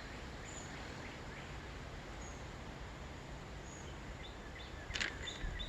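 Quiet woodland ambience: a steady outdoor hiss with a faint, short, high chirp repeating about every second and a half. Near the end a few crackling rustles begin, as of movement through leaf litter.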